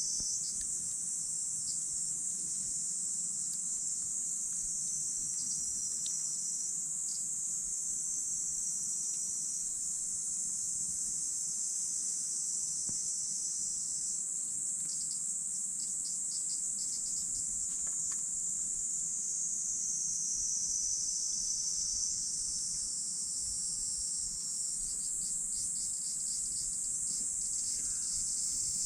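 Steady, high-pitched chorus of crickets trilling, with a few faint crackles from a wood campfire.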